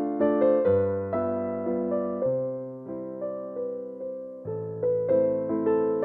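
Background solo piano music: a gentle waltz, its notes struck one after another and left to ring out.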